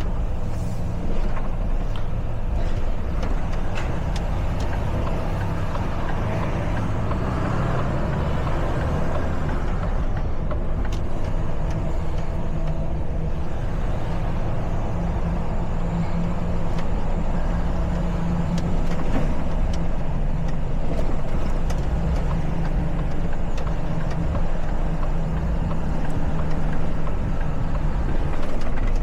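Truck engine running steadily while driving, a low hum with small changes in pitch, over continuous road and traffic noise.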